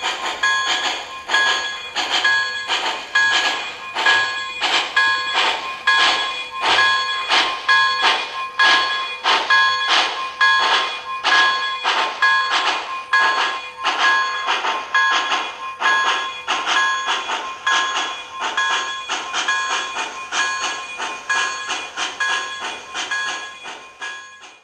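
An MTH HO-scale Union Pacific Challenger model steam locomotive's onboard sound system playing steady rhythmic steam chuffs, about two a second, with a repeating ringing tone over them. It cuts off suddenly at the end.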